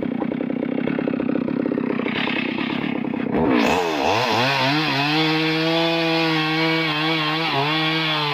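Two-stroke chainsaw engine running rough at low speed, then revving up about three and a half seconds in to full throttle and holding a steady high whine.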